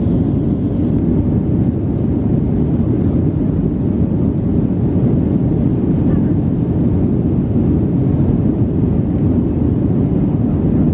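Airbus A321 passenger cabin noise in flight: a steady low rumble of engines and rushing air, unchanging throughout.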